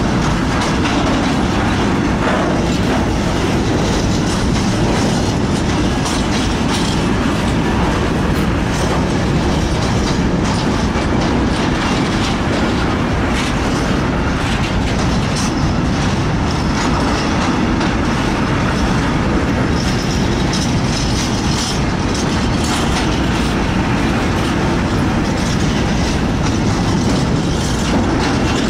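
Freight train wagons rolling past close by: a steady, loud rumble of steel wheels on rail, with repeated clickety-clack as the wheels cross rail joints.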